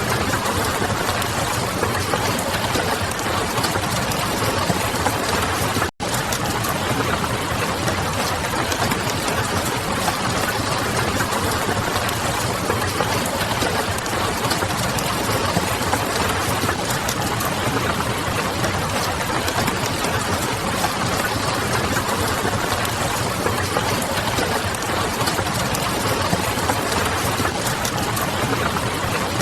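Ambience mix of a wood fire crackling and rain pattering, over a low steady hum, as a dense unbroken noise. It cuts out for an instant about six seconds in.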